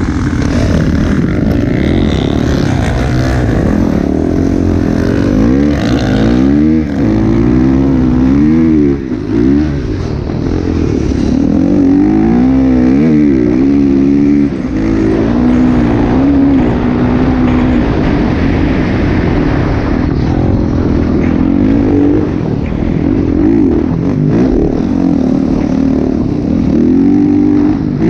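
Motocross dirt bike engine running hard and revving up and down over and over as it is ridden, its pitch rising and falling every second or two.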